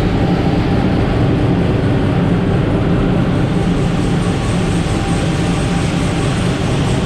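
Twin-turbo LS V8 of a drag car running steadily on a dyno, loud, with no clear revving up or down.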